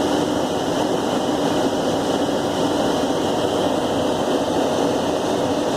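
Steady rush of airflow and engine noise inside a Boeing 737-700 flight deck on final approach, holding an even level throughout.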